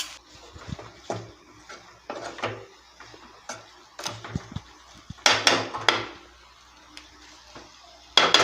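A spoon knocking and scraping against cookware in a string of separate strokes, loudest about five to six seconds in and again near the end, as mashed potato is added and mixed into the samosa filling.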